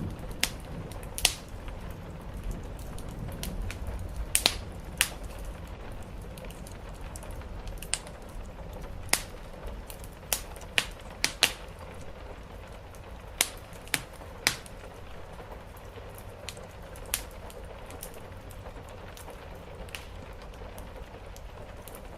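Wood fire crackling, with irregular sharp pops over a steady hiss of rain. A low rumble of thunder dies away in the first few seconds.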